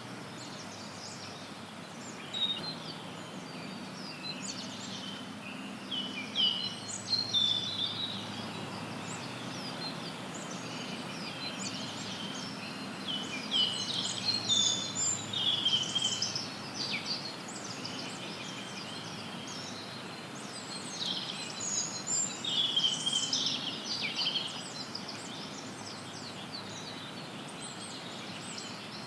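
Small birds chirping and twittering in three bouts of quick, high notes over a steady hiss of added white noise.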